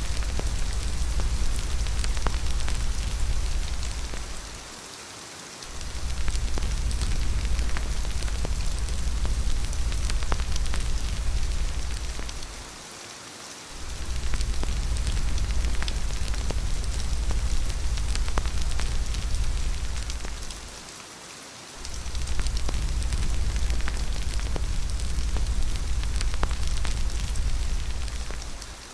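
Steady rain with faint scattered crackles of a wood fire, over a low rumble that fades out for about a second three times, about eight seconds apart.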